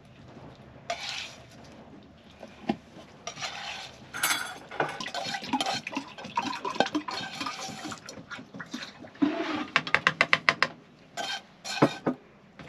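A serving utensil scraping and clinking against a pot and plates as pasta is dished up, with a quick run of clicks about ten seconds in.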